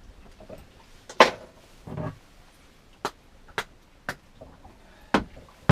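Irregular sharp knocks and thuds on a small fishing boat, about seven in under six seconds, the loudest just over a second in, over a low rumble of wind.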